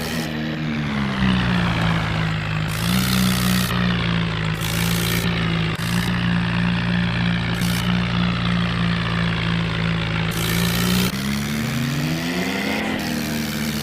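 Tractor engine sound running steadily. It drops in pitch about a second in and climbs back up near the end, as if the throttle is eased off and then opened again.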